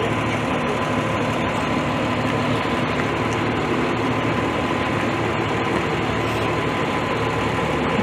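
A fire engine's diesel engine idling steadily, a low even drone with a thin steady whine above it.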